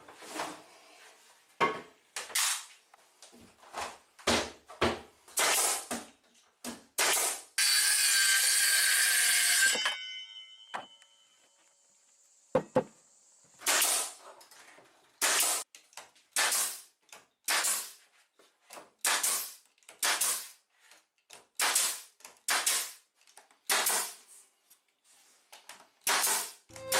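Repeated hand-tool strokes on wood, about one a second. About eight seconds in there is a louder two-second burst of noise, then a faint steady high whine for a few seconds before the strokes resume.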